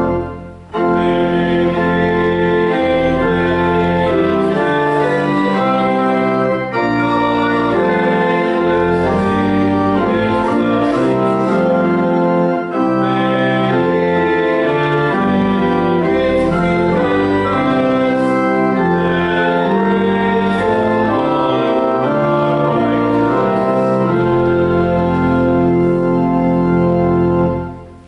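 Church organ playing a hymn tune in held chords, in phrases of about six seconds with short breaks between them. It fades out shortly before the end.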